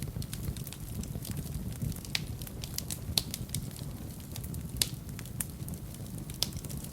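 Wood fire burning in a fireplace: a steady low rumble of the flames with irregular crackles and sharp pops of burning logs, a few pops standing out louder than the rest.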